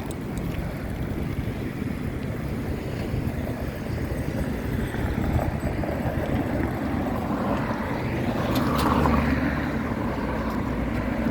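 Wind rushing over the microphone of a moving bicycle, with road traffic noise underneath. A louder swell of noise comes about nine seconds in.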